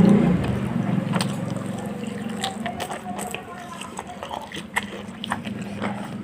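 Close-up eating sounds of fried chicken with gravy: irregular crunchy bites, chewing and wet mouth clicks over a steady low hum that fades.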